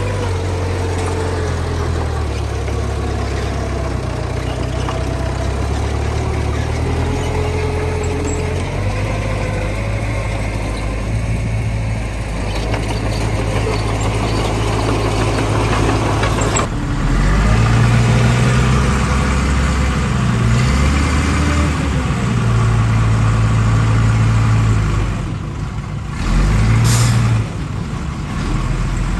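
Heavy diesel engine of earthmoving machinery running, its speed rising and falling, with a whine that glides in pitch during the first part. There is a short hiss near the end.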